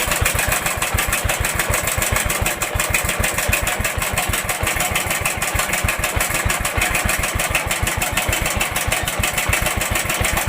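Hero Honda Splendor Plus single-cylinder four-stroke engine idling with an even, rapid exhaust pulse and a loud mechanical clatter. The mechanic puts the excess engine noise down to a worn timing chain, and the engine is also burning oil and blowing white smoke.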